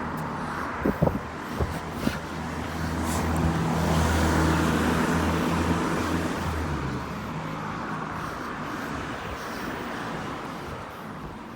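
A motor vehicle's engine running close by: a low hum that swells for a few seconds and then fades. A few light knocks come in the first two seconds.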